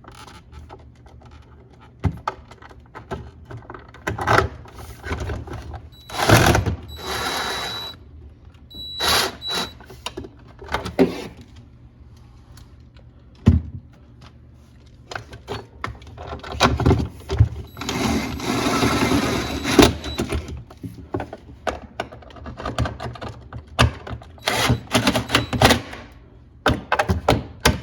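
Hands working on refrigerator ice-dispenser parts: irregular clicks, taps and knocks as pieces are handled and fitted, with two longer stretches of rustling and scraping, about six seconds in and again in the second half.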